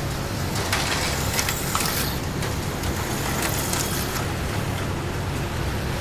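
HO scale slot cars running past on the track: a high-pitched rush with quick clicks that swells about half a second in and fades around four seconds, over a steady low motor hum.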